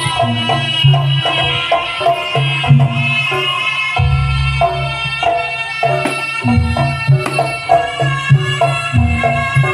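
Javanese jaranan accompaniment music: kendang hand drums play a busy pattern over struck gamelan-style pitched metal percussion, with heavy low drum strokes coming in every couple of seconds.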